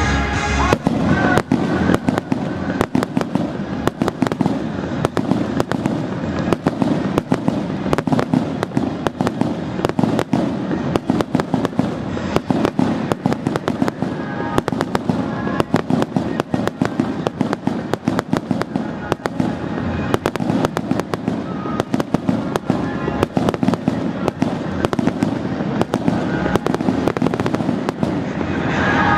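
Aerial fireworks display: a continuous barrage of bursting shells and crackling bangs, many each second.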